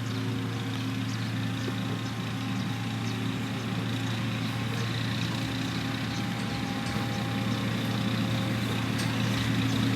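Heavy construction machine's diesel engine running steadily, a low, even hum that grows slightly louder near the end.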